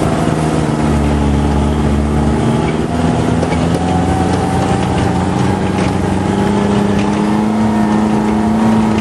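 Off-road vehicle's engine running while driving, its pitch climbing slowly over the last few seconds.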